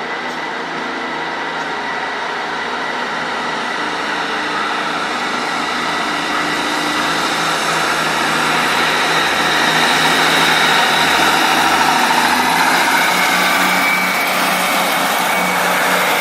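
A train's engine and running noise at the station, a steady hum that grows gradually louder over about ten seconds and then holds.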